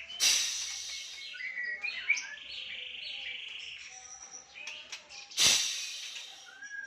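Songbird singing a run of varied chirps and a fast rattling trill. Two loud, harsh bursts of noise come just after the start and about five and a half seconds in.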